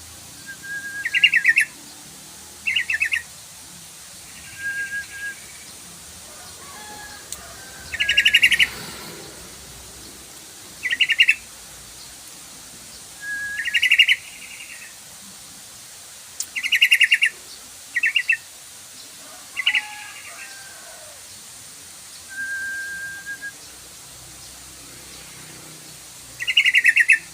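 Sooty-headed bulbul calling in short, rapid chattering phrases repeated every couple of seconds, some led by a brief thin whistle, over a steady faint hiss.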